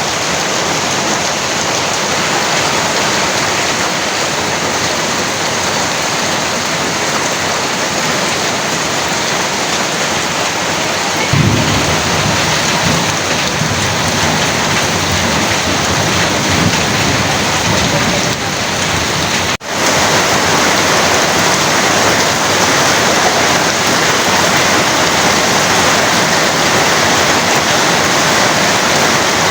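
Heavy rain pouring down in a steady, dense hiss. About a third of the way in, a thunder rumble starts suddenly and rolls on for several seconds. A brief dropout about two-thirds of the way in sounds like an edit.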